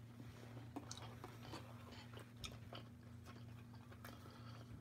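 Faint chewing and biting of pizza rolls, soft mouth clicks and small crunches scattered through, over a steady low hum.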